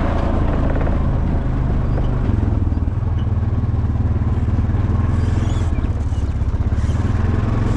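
Small vehicle engine running steadily, getting a little louder and lower-pitched about two seconds in.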